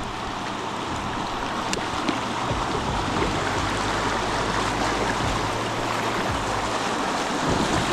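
River water rushing through a shallow bend, a steady hiss that grows a little louder.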